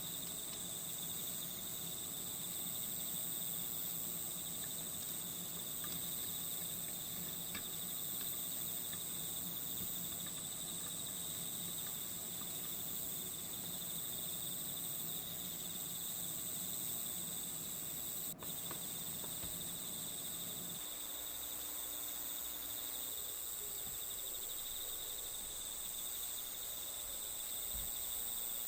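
Steady chorus of crickets chirping, a continuous high-pitched trill, with a single brief click about two-thirds of the way through.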